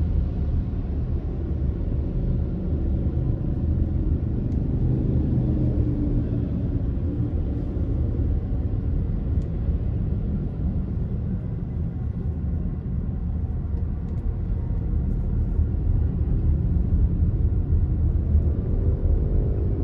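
Car driving on city streets: steady low engine and road rumble, with the engine pitch rising briefly a few seconds in and again near the end.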